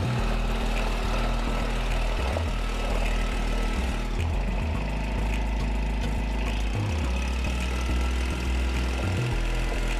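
Diesel engine of compact heavy equipment running steadily at a low, even speed.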